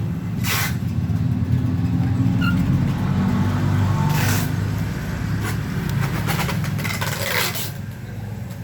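Motorcycle engine running steadily through an underslung aftermarket racing exhaust, a low, even note. A few short hissing sounds come over it.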